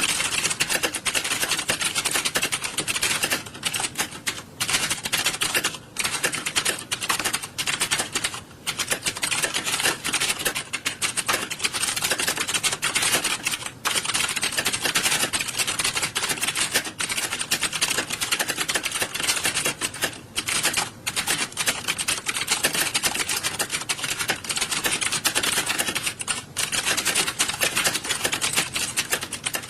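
Many computer keyboards being typed on at once in an exam hall: a dense, continuous clatter of keystrokes with a few brief lulls.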